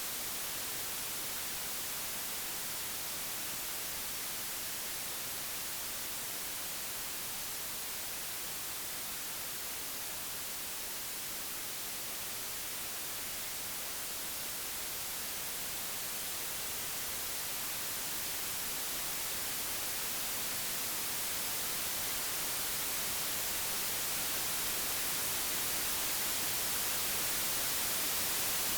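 Computer-generated white noise: an even hiss, with no tones or events, strongest in the highest frequencies. Its loudness eases slightly near the middle and swells slowly toward the end.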